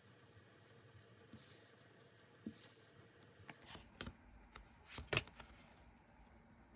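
Tarot cards being handled on a table: soft rustles and light clicks, busier in the second half with the sharpest click a little after five seconds.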